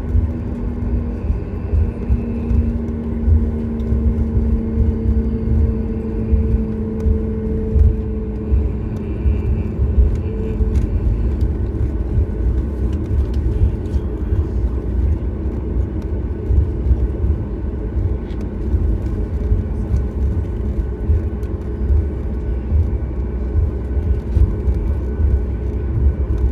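Cabin noise of a Boeing 737 MAX on the ground: a steady, heavy low rumble with the hum of its CFM LEAP-1B engines. Two low steady tones in the hum fade out about a third of the way through.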